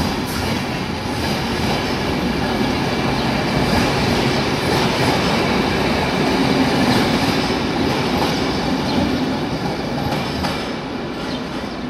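Passenger train coaches rolling past close by, their wheels running on the rails, the sound easing off a little near the end as the train moves away.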